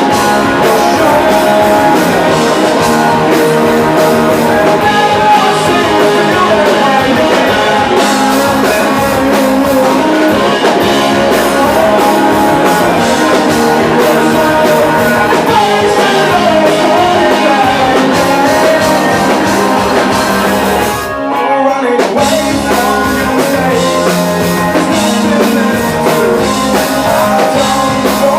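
Live rock band playing loud, with electric guitar and drums. The music nearly stops for a moment about three-quarters of the way through, then comes back in.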